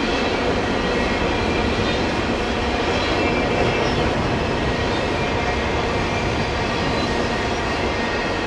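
A train rolling past close by: a steady noise of its cars' steel wheels running on the rails, with no horn.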